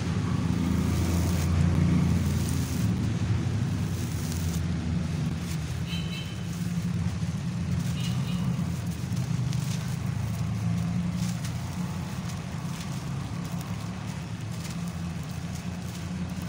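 Road traffic passing: a steady low engine rumble, loudest in the first few seconds and then easing off, with two brief high chirps about six and eight seconds in.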